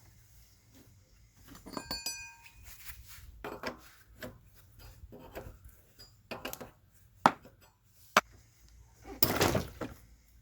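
Metal tools and parts handled during scooter engine repair work: scattered clinks and knocks, a metal piece ringing briefly about two seconds in, two sharp clicks later on, and a half-second clatter near the end.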